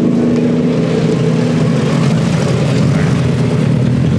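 A car engine running close by, a steady low drone.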